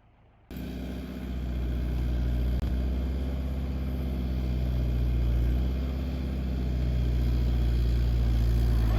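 Tractor engine running steadily at an even, low pitch. It cuts in suddenly about half a second in.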